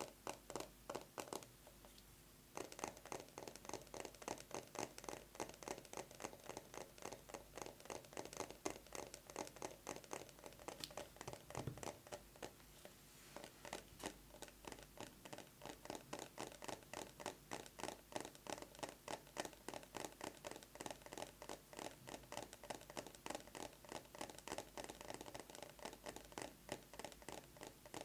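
Fast fingernail tapping on a plastic box with a metal cover, a rapid, even stream of light clicks. There is a short break about two seconds in.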